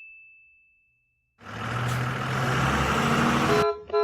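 A bell-like ding fading out over the first second. Then a car engine running with road noise for about two seconds, cut off by two short horn beeps.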